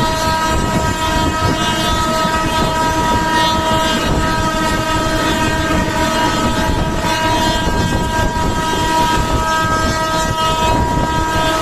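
LKO-PYGS Intercity Express train running, its low rumble continuous, with one steady pitched tone held over it throughout.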